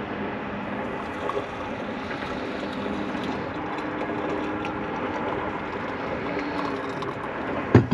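Hot water being poured from a heated pot or kettle into a cup for chai, a steady running pour. A sharp knock near the end.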